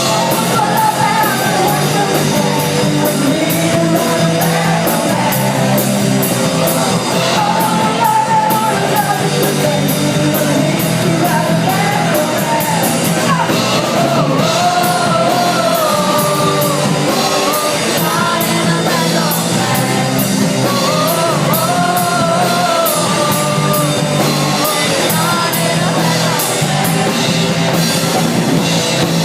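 A rock song with a lead vocal over bass and drums, the cymbals ticking steadily throughout.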